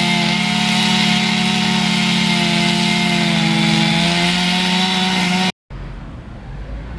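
Two-stroke chainsaw running at high revs in a steady whine; about four seconds in its pitch drops a little, and it cuts off suddenly about a second later. Quieter low rumbling noise follows.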